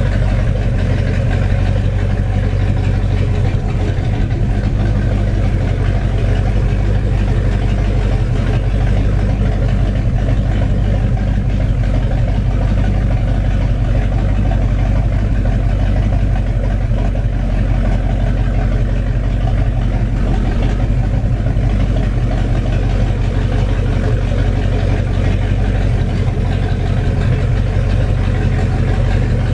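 Rebuilt 7.4-litre (454) Mercruiser counter-rotation big-block V8 inboard running steadily at an unchanging speed on its test run.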